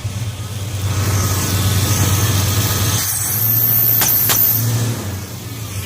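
Ford 460 big-block V8 in a 1979 F150 running and being revved, with two sharp pops about four seconds in. The pops come back through the carburetor when the engine is revved, and the cause is unknown to the owner.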